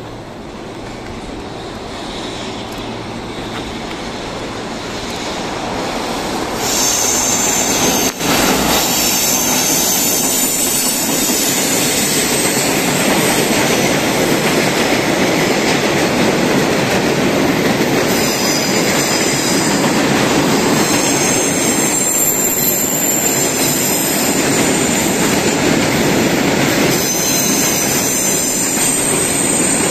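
Freight train of oil tank wagons hauled by an EF210 electric locomotive approaching and rolling past close by, growing louder and then, about six seconds in, jumping to a loud, steady rumble of wheels on rail. High-pitched wheel squeal from the curve comes and goes several times as the wagons pass, with one sharp knock early on.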